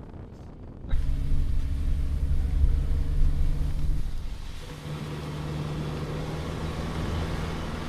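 Inside a Subaru Crosstrek's cabin on a rough unpaved road: a low engine drone and road rumble start abruptly about a second in. They are loudest for the next few seconds, then the engine hum shifts to a slightly higher steady pitch.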